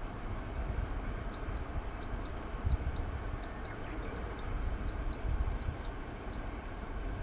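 Zitting cisticola singing: a string of short, sharp, high notes given in pairs, about one pair every 0.7 seconds, starting about a second in and running for about five seconds.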